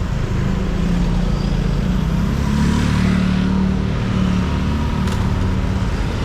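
Busy street traffic with a motor vehicle's engine running close by, its note swelling and loudest about halfway through; a short click about five seconds in.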